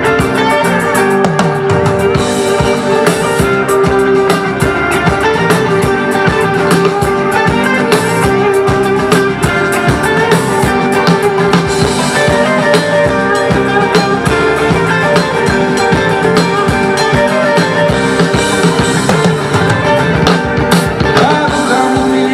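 Live rock band playing an instrumental break: electric guitar over drum kit, with no singing.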